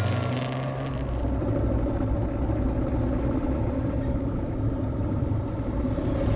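Motorcycle engine running steadily under way, with a continuous low rumble and road noise.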